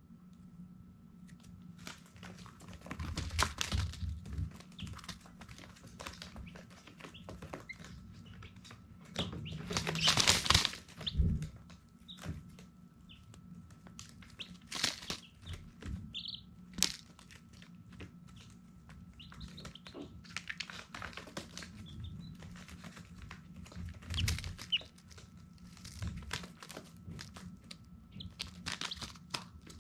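Baby chicks scuffling and flapping about, with a few short high peeps, over a faint steady hum.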